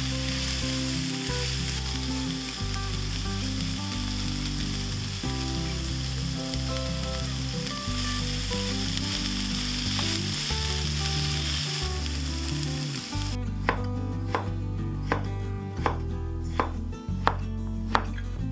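Food sizzling in a frying pan, a steady hiss that cuts off suddenly about 13 seconds in. Then a knife chopping on a cutting board, about two sharp strokes a second, over soft background music.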